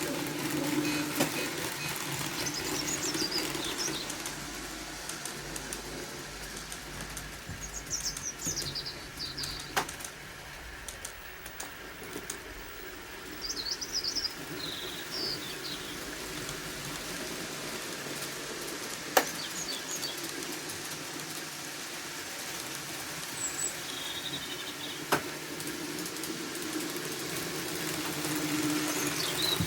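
Small birds chirping in short bursts every few seconds over a low steady hum, with a few sharp clicks, the loudest about 19 and 25 seconds in.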